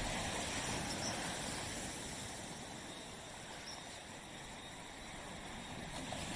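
Gentle surf washing on a beach: the wash dies away through the middle, and the next wave builds near the end.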